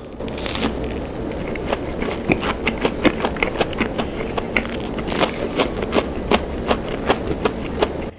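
Crunching of a fried cheese stick's crisp batter being bitten and chewed: one sharp bite about half a second in, then a run of crackly chewing clicks, a few every second.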